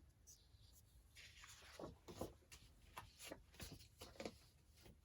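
Faint rustling and sliding of printed matte photo paper sheets being handled, with a few soft taps.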